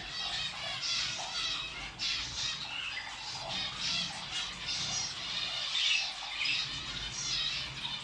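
Many small kept birds squawking and chattering over one another without pause.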